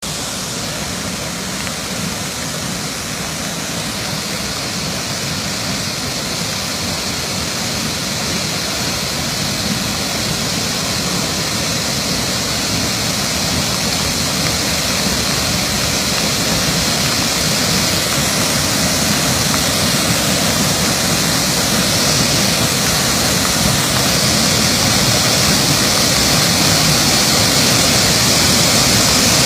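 Waterfall swollen in flood, its water rushing down in a steady roar that grows slowly louder.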